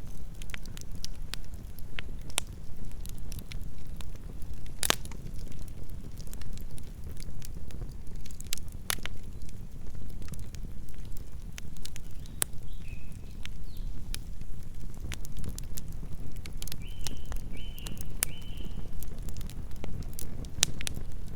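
Campfire burning, with irregular sharp crackles and pops over a steady low rumble of the flames. A few short high chirps come in about halfway through and three more toward the end.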